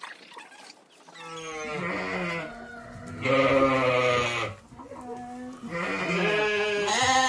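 Goats bleating: three long, wavering bleats, the loudest around the middle and the last one running on near the end.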